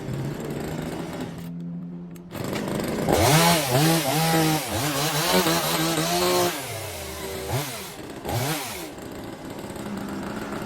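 Two-stroke engine of a Daewoo one-hand chainsaw idling, then revved up and down in a quick string of throttle blips, dropping back to idle, revved once more and settling to idle again. The saw is running on a freshly cleaned carburettor.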